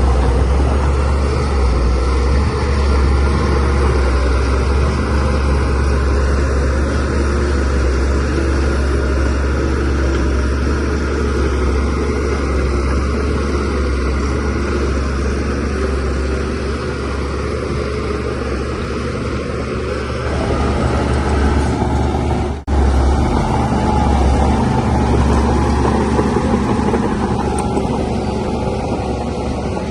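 DH17C3PRO bulldozer's diesel engine running steadily under load with a deep rumble, rising somewhat about two-thirds through. There is a momentary break in the sound about three-quarters of the way in.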